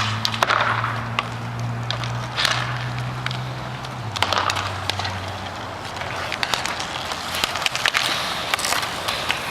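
Hockey play on the rink: skates scraping and rolling on the surface, with sharp clacks of sticks and puck scattered throughout, over a steady low hum that drops in pitch about four seconds in.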